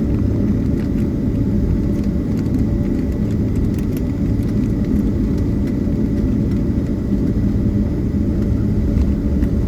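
Steady cabin noise inside a Boeing 767-300ER taxiing to the gate after landing: a low rumble with a faint steady whine above it.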